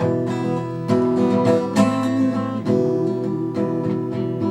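Acoustic guitar strumming chords in a steady rhythm, with a strong stroke about every second and lighter strokes between. It is an instrumental break between sung choruses of a song.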